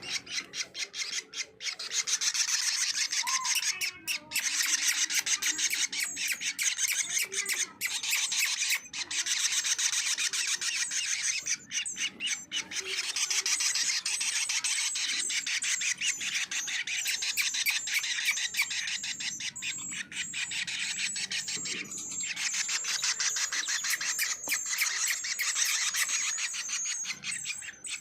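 Small songbird giving a continuous, very rapid chatter of high, ticking notes, broken by a few short pauses.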